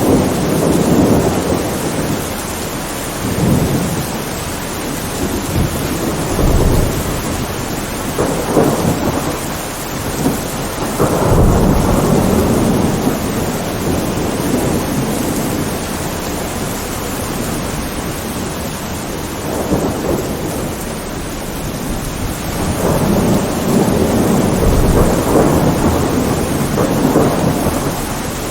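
Steady heavy rain with repeated rolls of thunder rumbling over it: a strong roll about eleven seconds in and a long one near the end.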